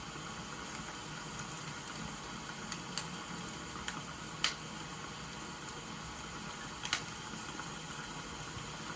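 Wood fire crackling over a steady hiss of rain, with a few sharp pops; the loudest come about halfway through and near the end.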